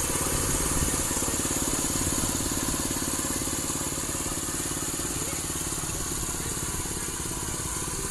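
Small gasoline engine of a walk-behind rice reaper running steadily, a fast even engine beat with a steady high hiss above it.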